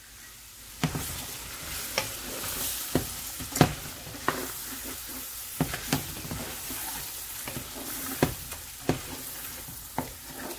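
Meat and spice paste sizzling in a large metal pot while a wooden spoon stirs it, with irregular knocks of the spoon against the pot about once a second, the sizzle and knocks picking up about a second in.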